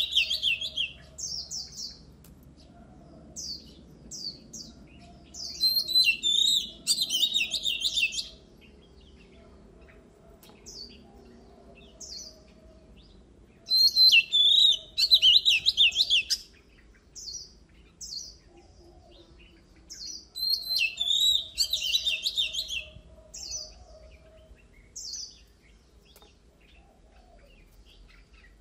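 Oriental magpie-robin singing: four loud bursts of rapid, varied whistled phrases, one every six or seven seconds, with scattered single notes between them.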